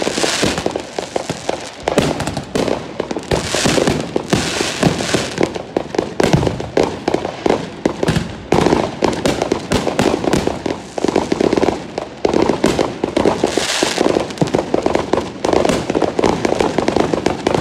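Aerial fireworks bursting overhead in quick succession: a constant run of bangs and pops, with crackling stretches about four seconds in and again near fourteen seconds.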